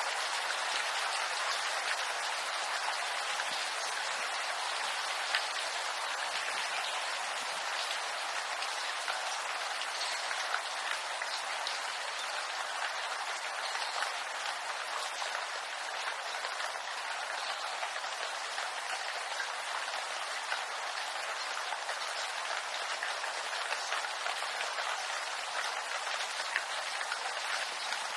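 Steady rain falling on a bamboo grove: an even hiss with many small, scattered drop ticks.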